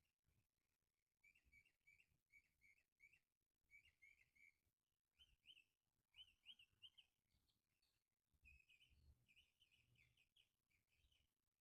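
Faint birdsong: short runs of quick, high chirps, repeated again and again with brief pauses between them.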